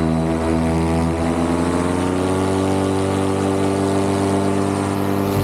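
Vittorazi Moster 185 paramotor engine and propeller running at flight power with a doubled, uneven drone: two sets of tones sound together, some of them creeping slowly up in pitch. The pilot puts it down to the reduction drive belt slipping.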